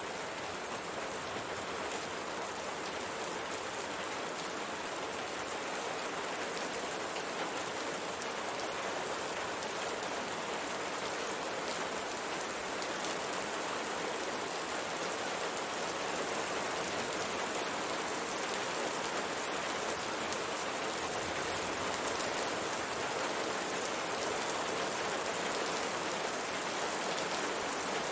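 Steady rain falling on a window pane, an even hiss of rain with a dense patter of individual drops.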